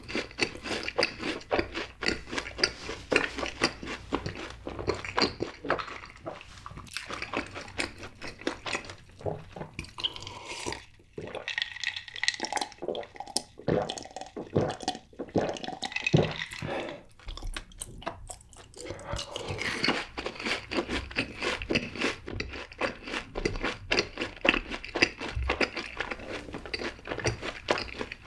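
Close-miked chewing of fried cheese balls: dense, rapid crunching of the crisp fried coating. It thins out to quieter, wetter chewing for a stretch in the middle, then crunches hard again.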